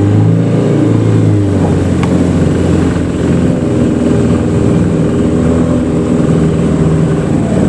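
Small boat's motor running steadily with a low hum, turning rougher about a second and a half in.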